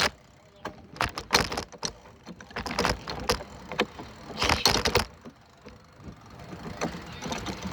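Irregular clicks, knocks and rattling, with louder rustling bursts about a second in, around three seconds and around five seconds.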